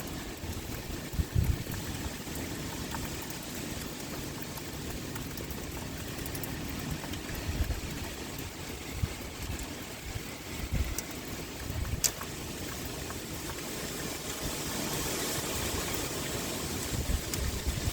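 Heavy rain pouring steadily as an even hiss, with short low rumbles of wind gusting every few seconds and a single sharp click about twelve seconds in.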